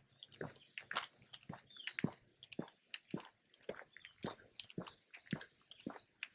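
Footsteps crunching on a path at a steady walking pace, about two steps a second.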